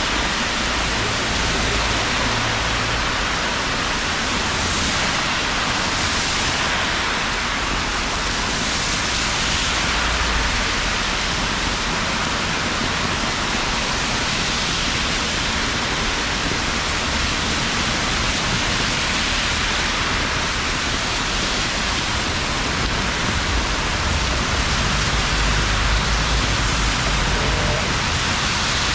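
Steady rain falling, a dense even hiss, with uneven low rumbling underneath.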